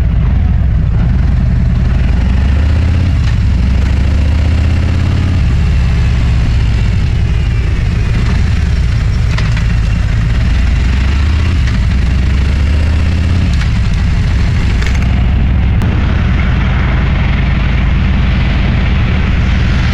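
Motorcycle engine running under way, a loud steady low rumble whose pitch shifts a little a few times as the throttle changes, over a rushing hiss of wind and road.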